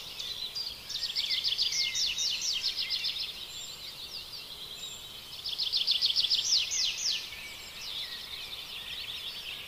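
Small birds chirping, with two fast runs of rapid high, down-sweeping notes: one about a second in and another at around five and a half seconds, with scattered single chirps between them.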